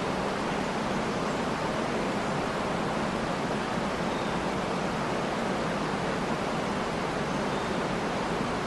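Waterfall: a steady, even rush of falling water, with a faint bird chirp or two in the middle.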